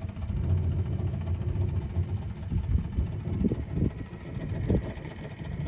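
Small boat's outboard motor running at idle: an uneven low rumble, with a couple of short knocks about three and a half and four and a half seconds in.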